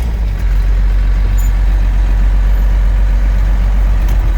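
1993 Dodge W250's 5.9-litre 12-valve Cummins turbo diesel running with a steady, deep drone.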